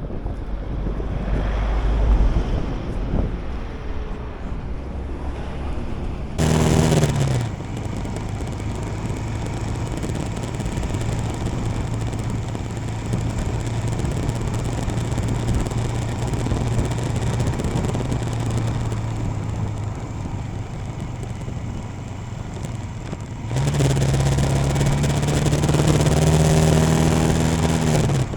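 Royal Enfield Himalayan motorcycle's single-cylinder engine running under way, with wind on the microphone. The engine note gets louder briefly about seven seconds in, and again from about 23 seconds until just before the end.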